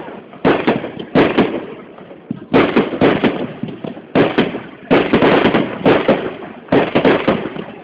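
Aerial firework shells bursting: about eight loud bangs in quick succession, some only half a second apart, each trailing off in a fading rumble.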